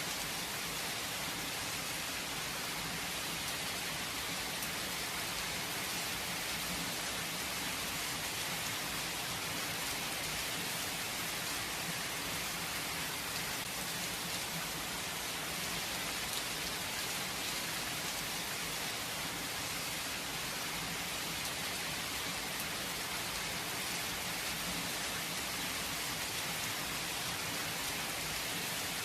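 Steady rain falling, an even hiss of many drops, without thunder.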